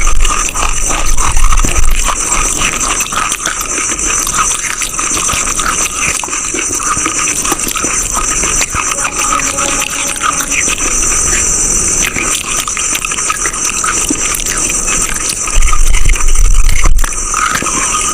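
Close-miked crunching and chewing of a brittle, chalk-like material, with a dense run of irregular crisp crunches. The crunching grows heavier a little past three-quarters of the way through.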